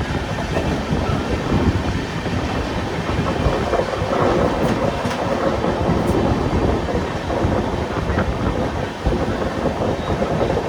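Passenger express train running along the line: a steady, loud rumble and rattle of the coaches on the track, with a few faint clicks.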